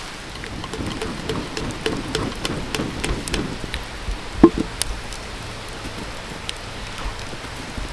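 Food grilling over a charcoal campfire: a steady sizzling hiss with scattered sharp crackles, and one louder knock about four and a half seconds in.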